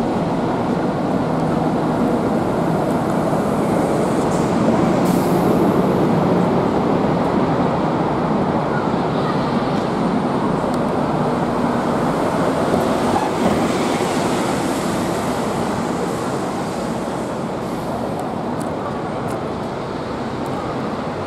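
A rail vehicle, a train or metro, running on track: a steady rumble with a low hum that swells a few seconds in and fades slowly toward the end.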